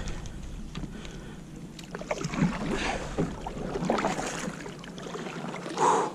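Irregular knocks and scrapes on a plastic kayak, with small water splashes, as a landed snook and tackle are handled aboard. A louder splash or rush comes near the end.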